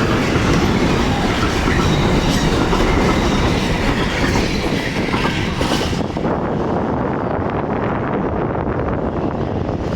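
A train running past on the station tracks, a loud steady rumble of wheels on rails; the higher hiss drops away about six seconds in as it draws off.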